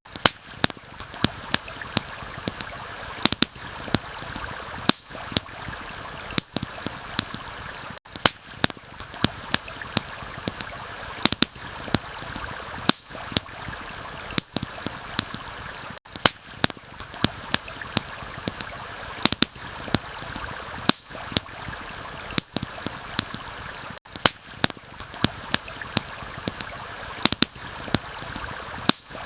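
Steady rush of a flowing stream with a campfire crackling over it: frequent sharp, irregular pops and snaps. The mix seems to loop about every eight seconds.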